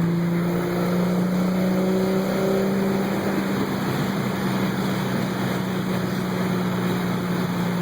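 Single-turbo Toyota Supra's 2JZ inline-six running under steady cruise, heard from inside the cabin, its drone rising slightly in pitch over the first couple of seconds and then holding. A constant rush of road and wind noise lies under it.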